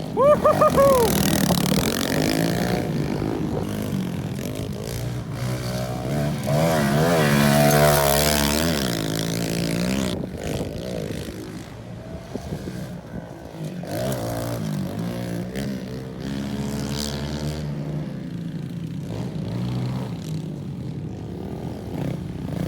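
Pit bike engines revving up and down as the small bikes ride around, the pitch rising and falling again and again. The run is loudest about eight seconds in.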